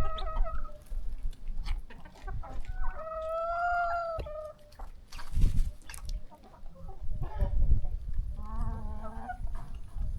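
Chickens calling and clucking, with a drawn-out call about three seconds in and shorter calls at the start and near the end.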